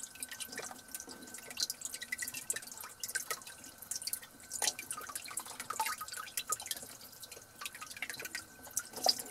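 Water dripping and splashing in a sink in small irregular drops while raw chicken legs are rinsed.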